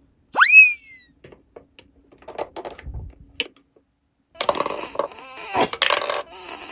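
A cartoon sound effect: a quick whistle-like swoop upward that dips slightly at the top, the loudest thing here. It is followed by a few light clicks, and from a little past the middle by a longer, busier stretch of clattering sound.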